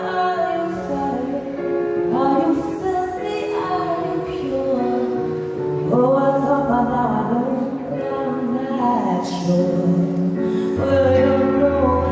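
A woman singing a pop song over instrumental accompaniment, in a few long held phrases.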